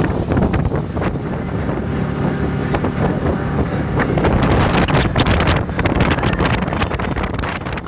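Ferry under way on the lake, its running noise buried under heavy wind buffeting the microphone in irregular gusts.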